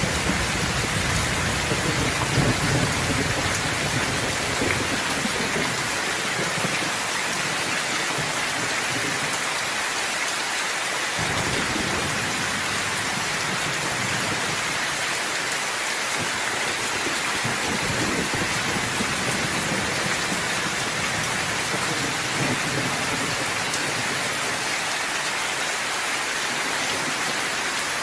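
Steady heavy rain hissing, with a low rumble of thunder in the first few seconds that fades away, and fainter distant rumbles later on.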